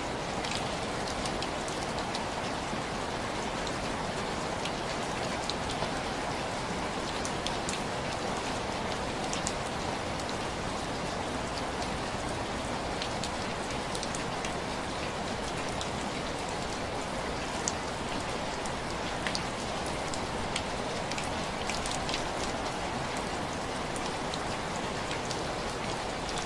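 Heavy rain falling steadily, with scattered sharp pops and crackles from a wood fire.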